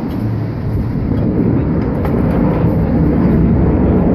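Air-show aircraft flying past, a loud, steady rumble that slowly builds in volume.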